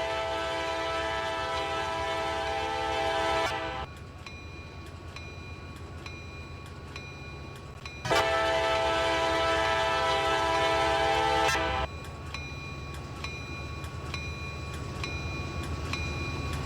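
Freight locomotive air horn sounding two long blasts of several notes at once, each about four seconds, over the train's steady rumble. These are the opening long blasts of the long-long-short-long grade-crossing signal.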